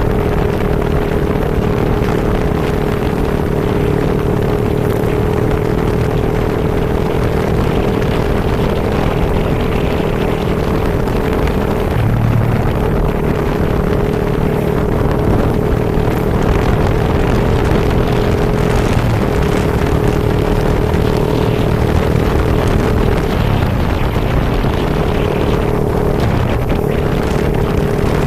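Vehicle on the move in a rainstorm: an engine running steadily under a constant rush of wind and rain noise, with a steady hum that breaks off briefly a few times.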